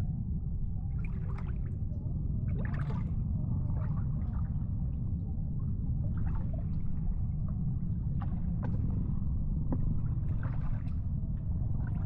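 Water sloshing and splashing irregularly over a steady low rumble.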